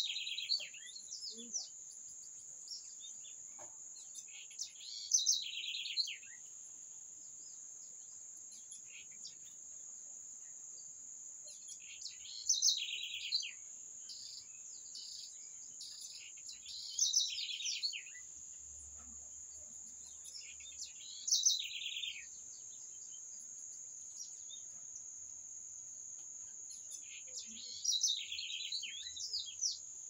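A songbird repeating a short song phrase about six times, a few seconds apart. Each phrase is a quick run of notes, about a second long, that falls in pitch. A steady high-pitched insect buzz runs underneath.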